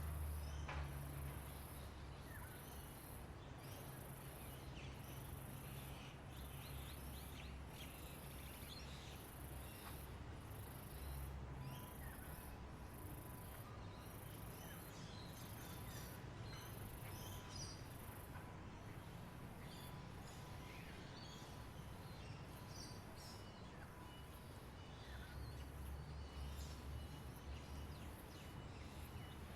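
Natural outdoor ambience: an insect's high-pitched buzzing pulses repeat about once a second while small birds chirp here and there, over a low background rumble.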